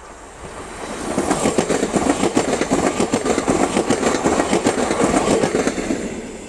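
Siemens Desiro electric multiple unit passing close by: its noise swells as it approaches, a dense clatter of wheels on the rails for about five seconds, then fades as it goes by.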